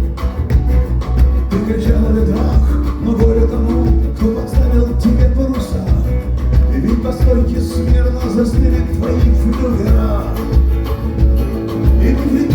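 A live band playing an instrumental passage of a rock song, with a heavy, steady bass under guitar lines.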